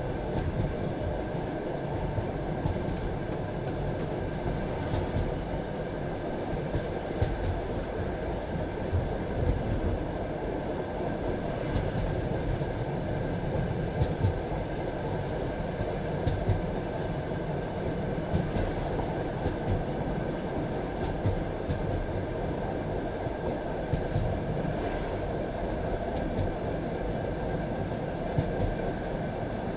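Passenger train carriage running along the track: a steady rumble of the wheels on the rails, with short knocks of the wheels over rail joints every few seconds.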